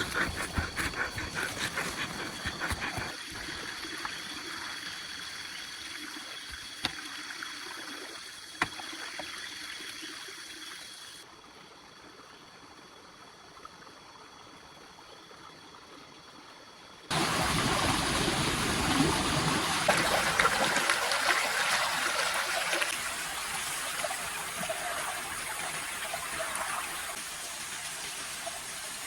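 Running, trickling water with scattered clicks and knocks. It drops to a quieter, steady background about eleven seconds in, then comes back louder and rushing from about seventeen seconds.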